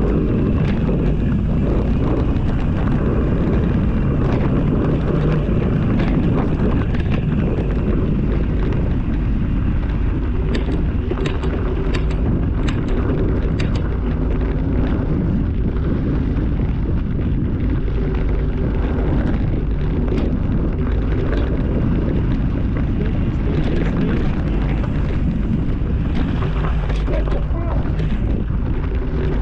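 Steady, loud wind buffeting on the microphone during a trail ride, with scattered sharp clicks and rattles, thickest about ten to fourteen seconds in.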